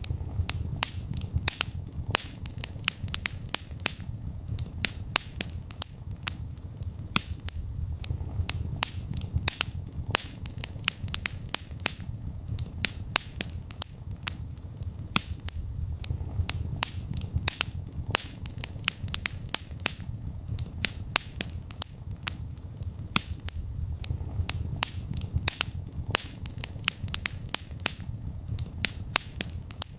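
Wood fire burning in a fireplace: dense, irregular crackling and sharp pops over a steady low rumble of the flames.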